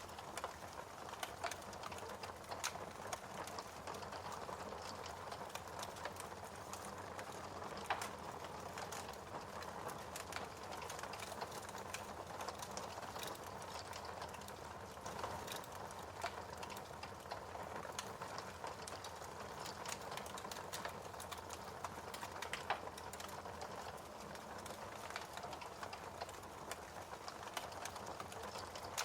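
Wood fire burning in a fireplace, crackling steadily with a soft hiss and frequent small irregular pops, a few louder ones.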